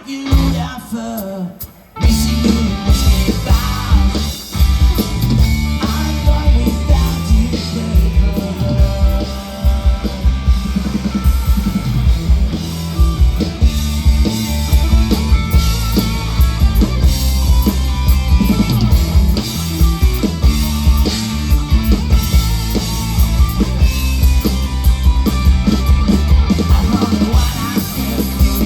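Rock band playing with electric guitar and drum kit. After a short quieter break, the full band crashes back in about two seconds in and keeps driving at full volume.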